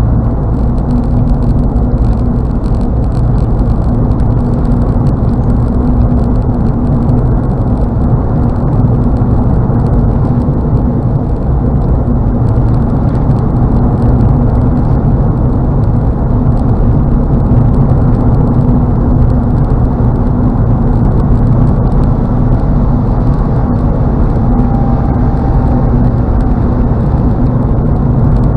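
Steady low drone of a car's engine and tyres on the highway, heard from inside the cabin, with a constant hum running under it.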